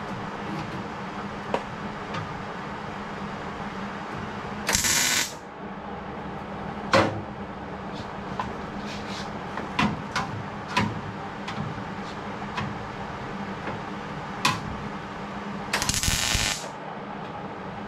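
Two short tack welds on sheet-metal patch panels, each a crackling hiss of under a second: one about five seconds in, the other near the end. Light clicks and knocks of tool handling come between them, over a steady shop hum.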